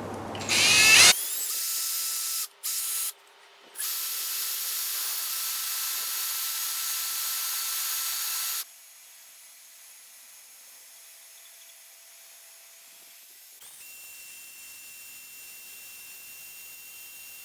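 Power drill boring the marked holes for a snorkel bracket into the vehicle's sheet-metal body with a drill stop on the bit. It spins up, runs steadily with two brief stops, then drops sharply to a much quieter steady sound for the second half.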